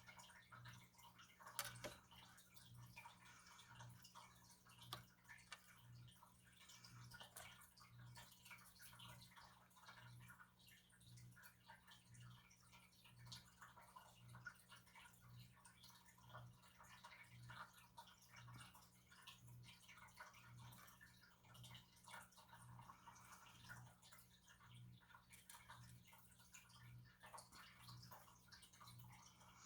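Near silence: room tone with a faint low hum that pulses about one and a half times a second, and faint scattered light ticks.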